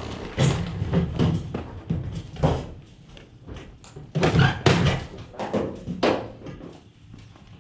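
A run of irregular thumps and knocks over a steady low hum.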